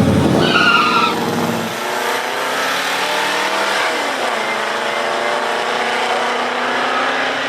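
Two muscle-car V8s, a Pontiac Firebird and a Plymouth Duster, running at full throttle in a drag race. They are loud at first, then drop off about two seconds in as they pull away down the strip, and keep running hard with the pitch shifting about four seconds in. A brief high squeal comes about half a second in.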